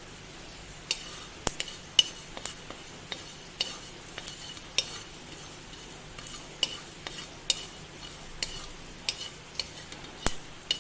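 Fennel seeds frying in a pan while being stirred: irregular sharp clicks and scrapes of the spoon against the pan, about one or two a second, over a faint steady sizzle.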